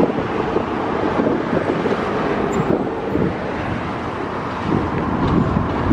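Canadian Pacific double-stack container freight train rolling past, its steel wheels making a steady rumble and clatter on the rails.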